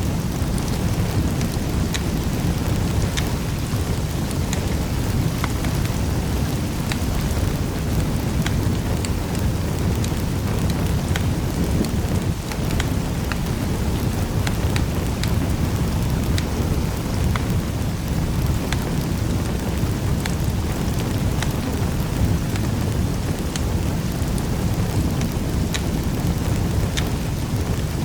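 Wood fire crackling in a fireplace: scattered sharp pops and snaps over a steady low rumble of the burning fire.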